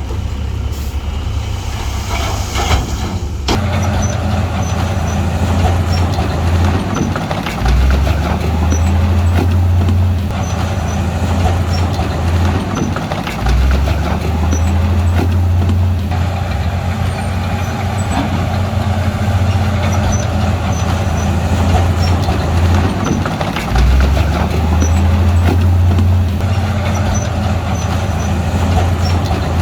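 Crawler bulldozer's diesel engine running hard under load while pushing stone. Its pitch sags and recovers several times, over a continuous clatter of tracks and rock.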